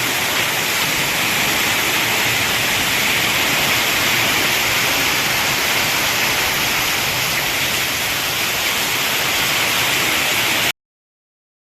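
Steady rain falling, an even hiss that cuts off abruptly near the end.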